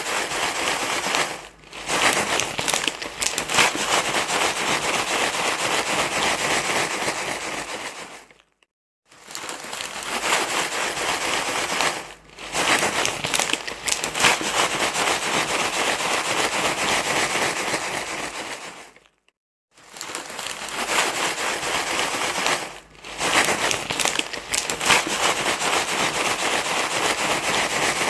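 Rustling and crinkling noise, a crinkly material being crumpled and handled, played as a soothing sound for a crying baby. It comes in loops of about eight seconds, each broken by a short dip and ending in a brief silence before it starts again.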